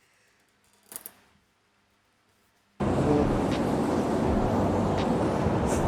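Near silence with a brief faint sound about a second in, then a steady outdoor rushing noise that starts abruptly a little under three seconds in, with a few faint ticks.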